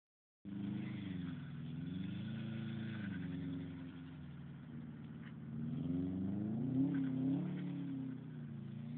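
Subaru Impreza's flat-four boxer engine revving up and down as the car drifts on snow, the pitch rising and falling several times and climbing highest about seven seconds in.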